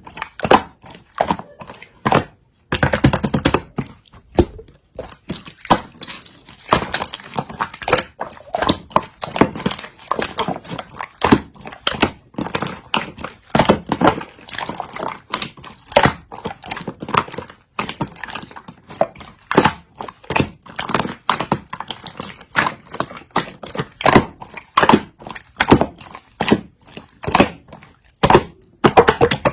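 Clear yellow slime being squeezed and pressed by hand, making a dense run of irregular wet clicks and pops.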